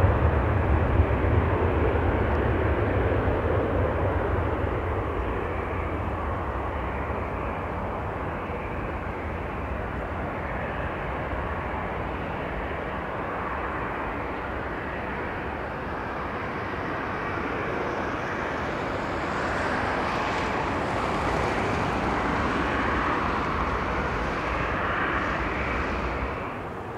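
Airbus A321 jet engines running with a steady roar. It is loudest at first and eases over several seconds, then swells again in the last third before dropping off abruptly near the end.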